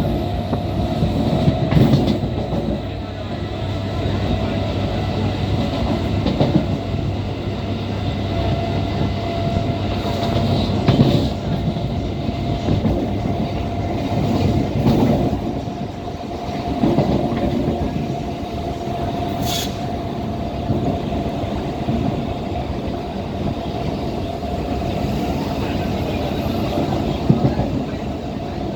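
MMTS suburban electric train running along the line, heard from on board: continuous rumble of wheels on rail with a steady whine and occasional knocks. A brief high-pitched squeak comes about two-thirds of the way through.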